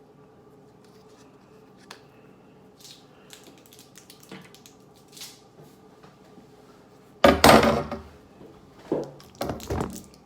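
Handling noise from the rod-repair work: small clicks and taps over a faint steady hum, then a loud clattering scrape about seven seconds in and a few shorter knocks as the broken handle pieces and threaded rod are handled.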